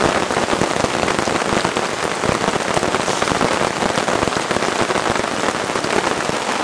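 Steady rain falling on tarp shelters: a dense, even spatter of many separate drop hits close together.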